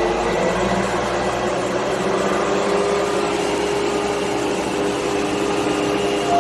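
Takeuchi TB285 mini excavator's diesel engine running steadily, with the hydraulics driving the excavator-mounted rotary mower.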